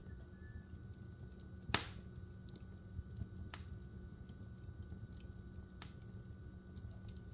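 Logs burning in a wood fireplace, crackling with scattered small ticks and one loud sharp pop about two seconds in. Two smaller pops follow, near the middle and about six seconds in.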